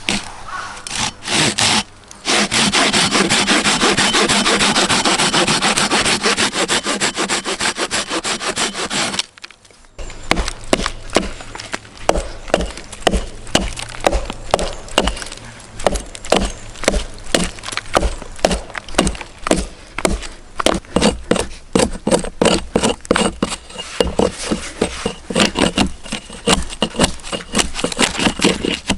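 Hand saw cutting through wood. A fast continuous rasping runs for several seconds, then after a short pause the saw works in steady, regular back-and-forth strokes.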